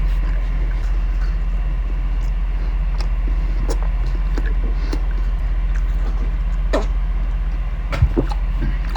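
Close-up chewing of a crunchy grilled peanut butter and jelly sandwich: scattered crunches and mouth clicks, the sharpest near the end, over a steady low hum.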